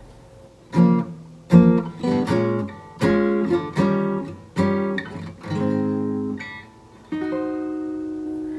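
Acoustic guitar playing the intro to a jazz tune: a run of strummed chords, then a last chord left ringing from about seven seconds in.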